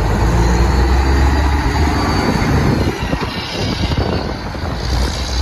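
A large vehicle's engine running with a deep, steady rumble. The rumble eases off about three seconds in and comes back near the end.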